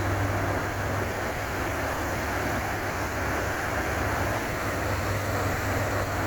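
Ferry's engines running, a steady deep hum under an even rushing noise.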